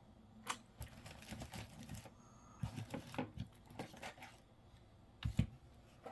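Faint, scattered clicks and rustles of small objects being handled and shifted on a desk while rummaging for a pen, with a sharper pair of knocks about five seconds in.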